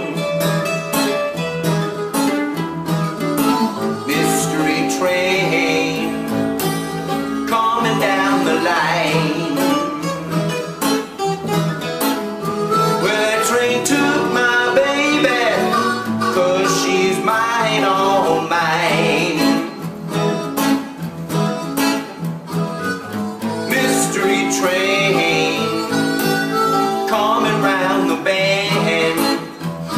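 Acoustic blues band playing, with guitar strumming throughout and a lead line that bends in pitch over the chords every few seconds.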